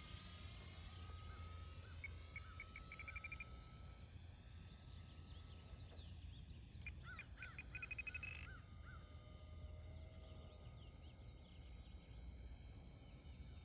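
Faint outdoor ambience: birds chirping, with two quick trills of repeated notes, over a low rumble. The distant drone of a flying RC model Cessna 182 slowly shifts in pitch as it passes.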